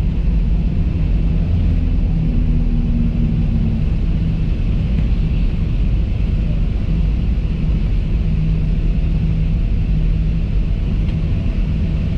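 Steady low rumble of a Boeing 737 airliner, its engines and airframe heard from inside the passenger cabin, with faint steady engine tones over it.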